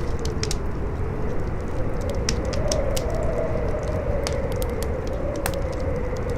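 Campfire crackling with many irregular sharp pops, over strong howling wind with a low rumble. The howl rises in pitch about two and a half seconds in and sinks again after about four seconds.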